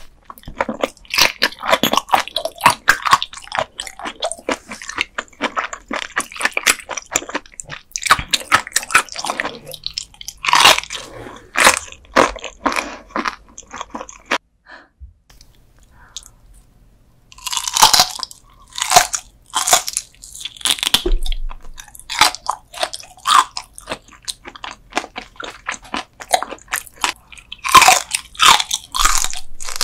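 Close-miked chewing and crunching of raw gizzard shad sashimi eaten bones and all, with many sharp crunches. The crunching stops for about three seconds around the middle, then resumes.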